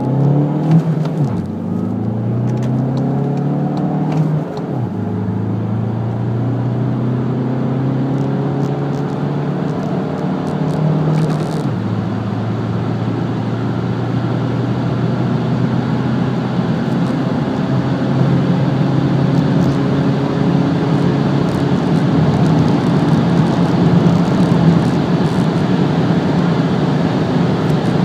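Skoda Octavia's 2.0 TDI four-cylinder diesel, heard from inside the cabin, accelerating hard up through the gears of its six-speed manual. The engine note rises in each gear and drops at three gear changes in the first twelve seconds. Then it climbs slowly through a long pull in one gear while wind and tyre noise build with the speed.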